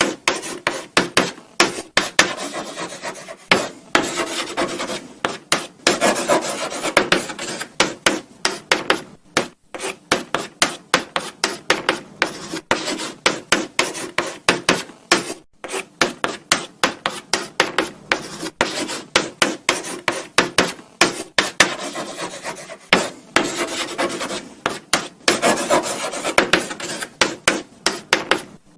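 Chalk writing on a blackboard: a quick, irregular run of short scratchy strokes and taps, with brief pauses between words.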